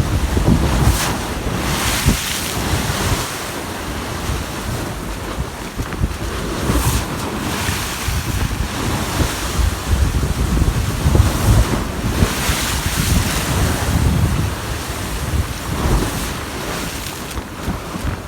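Strong gusty wind buffeting the microphone with a heavy low rumble, over the wash of waves, with several louder surges.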